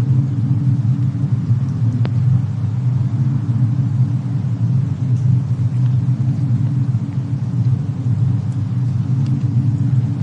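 Fireplace and snowstorm ambience: a steady low rumble with a few faint crackles from the burning wood, the sharpest a single pop about two seconds in.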